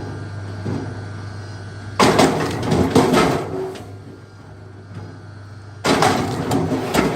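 Two spells of clattering knocks, each lasting a second or two, over a steady low hum.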